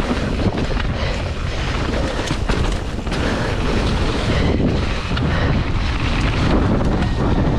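Wind buffeting the microphone of a mountain bike rider's camera, with the clatter and knocks of the bike rolling over rough trail.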